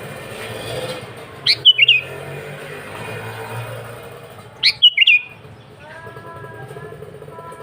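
Sooty-headed bulbul (kutilang) singing two short, loud phrases of quick whistled notes about three seconds apart, over a steady low background noise.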